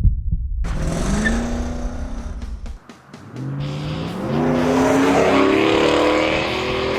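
Car engine revving as it accelerates, its pitch climbing, with a brief drop near three seconds before it climbs again. A deep music beat runs under the first half.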